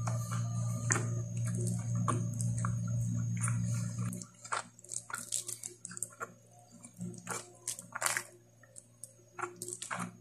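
Close-miked eating sounds: chewing with wet mouth clicks and smacks as spicy pork curry and rice are eaten by hand, with fingers squishing rice on the plate. A steady low hum cuts off about four seconds in.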